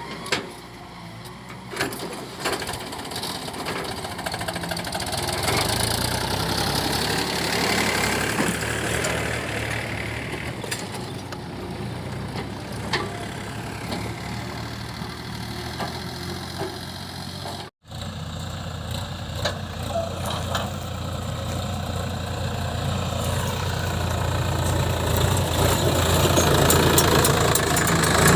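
Diesel engine of heavy machinery running steadily, growing louder in the last several seconds, with a brief dropout in the sound near the middle.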